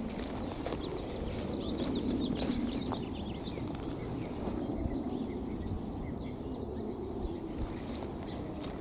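Small birds chirping, with short high calls scattered throughout, over a steady low rumble of outdoor noise.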